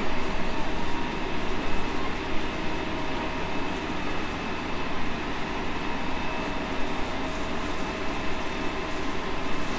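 JR Central 313 series 5000 subseries electric multiple unit running along at steady speed, heard from inside the carriage: a continuous rumble of wheels on rail with a steady whine held at an even pitch.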